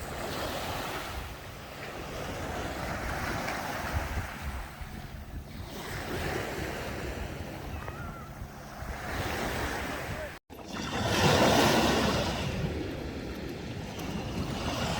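Sea waves washing onto the shore in repeated swells every few seconds, with some wind on the microphone. The sound cuts out for an instant about two-thirds of the way in, and the loudest wave comes right after.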